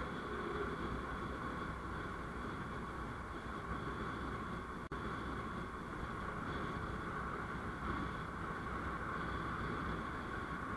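Steady engine and road noise from a vehicle moving along a road, with a brief dropout in the sound just under five seconds in.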